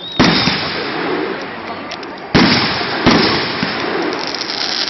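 Fireworks bursting: three loud bangs, the first just after the start and two more close together about halfway through, with crackling between them.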